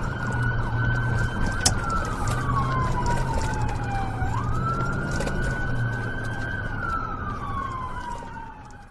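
Police car siren on a wail setting, rising quickly and falling slowly in long sweeps, over the running noise of the patrol car. It fades out near the end.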